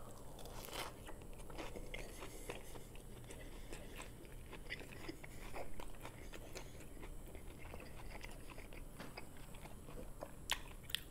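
A person bites into a burger and chews it, with quiet, irregular wet mouth clicks and soft crunches. Two sharper clicks come near the end.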